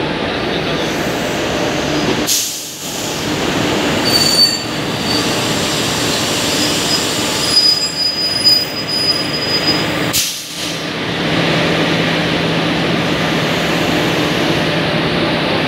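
Locomotive rolling slowly past along the track beside sleeper coaches, its wheels giving thin high squeals on the rails twice, about four seconds in and again from about seven to ten seconds. From about eleven seconds in a steady low hum runs under the rolling noise.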